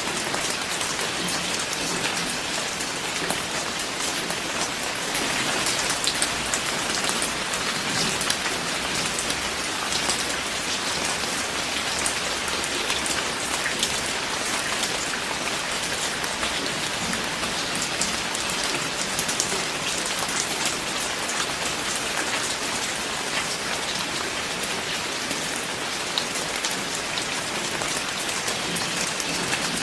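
Steady rain falling: an even hiss dotted with many sharp ticks of drops hitting a surface.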